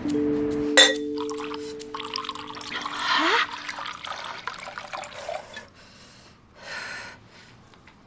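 A drink being poured into a glass, with a sharp glass clink about a second in and a hiss of pouring that rises in pitch as the glass fills.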